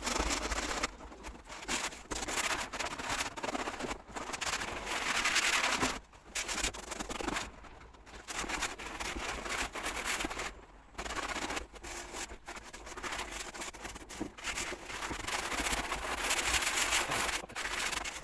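Scraping or rubbing strokes on a surface, coming in irregular bursts with short pauses between them.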